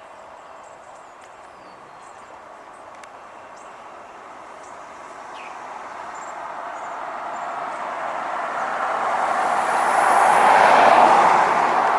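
A vehicle approaches and passes: a steady rush of engine and tyre noise that swells slowly to its loudest near the end, then begins to fade. Small birds chirp faintly behind it.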